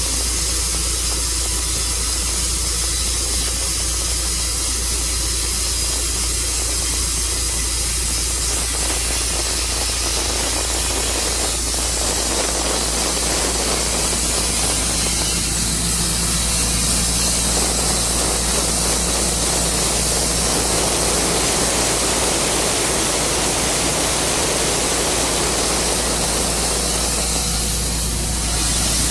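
Tru Cut sawmill running and cutting through a walnut log: a loud, steady, hissing noise that grows fuller about twelve seconds in.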